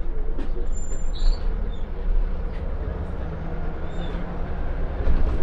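Scania L94UB Wright Solar single-deck bus under way, heard from inside: its diesel engine and road noise. A couple of brief high squeaks come through about a second in and again near four seconds.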